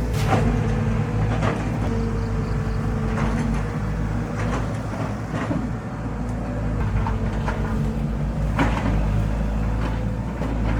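An engine running steadily, with several sharp knocks and clatters over it.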